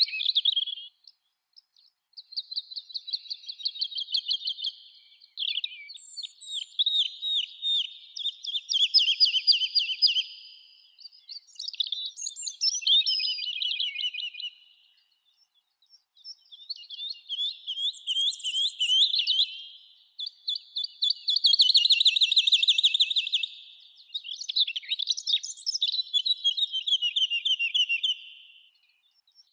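Songbirds singing: high, rapid trilled phrases a few seconds long, one after another with short pauses between.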